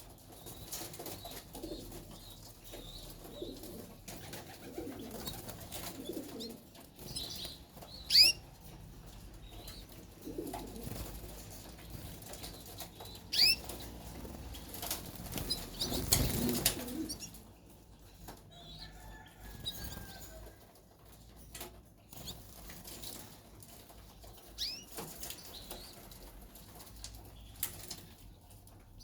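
Caged white canaries fluttering and calling: a few short, sharp high chirps spread through, and a loud flurry of wing-flapping about halfway through. Some low gliding calls sound in the first third.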